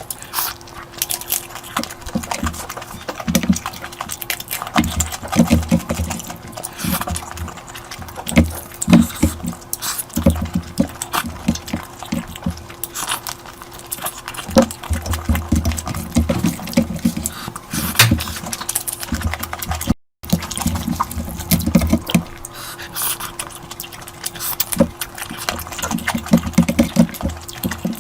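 Close-miked eating of curry and rice: wet chewing and slurping with dense, irregular clicks and soft thumps. The sound cuts out completely for a moment about 20 seconds in.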